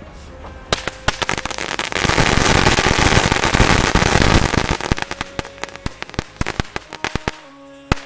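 A whole pack of knetterlint, a category 1 firecracker string, going off. Scattered sharp pops build about two seconds in to a dense, rapid crackle of bangs, which then thins to separate pops and dies out near the end.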